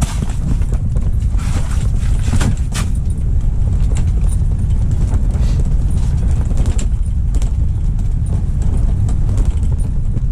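Strong wind buffeting the microphone: a loud, steady rumble, with scattered light clicks and knocks.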